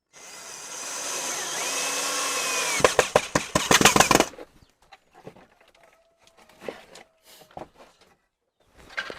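A small power tool running steadily for about three seconds, then a quick run of sharp knocks and clatter, followed by scattered faint handling sounds.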